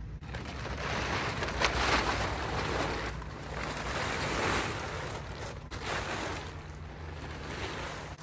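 Car cover fabric rustling and swishing in several rising-and-falling swells as it is dragged off the car, with a sharp crackle about one and a half seconds in.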